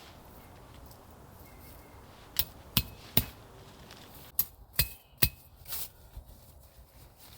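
Hammer blows: two sets of three sharp strikes roughly half a second apart, some followed by a faint metallic ring, then a weaker knock.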